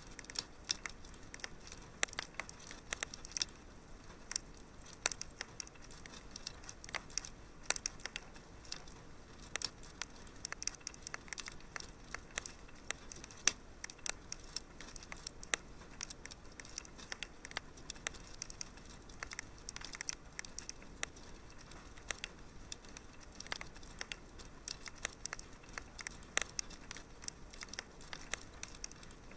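Wood fire crackling in a fireplace: a soft steady hiss with irregular sharp pops and snaps several times a second.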